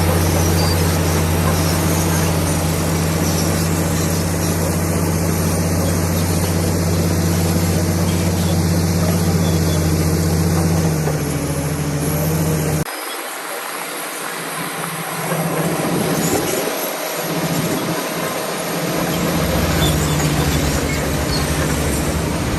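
Crawler bulldozer's diesel engine running with a steady low drone. About halfway through the sound cuts abruptly to a lighter, noisier mix with little of the low engine note, and the steady drone returns near the end.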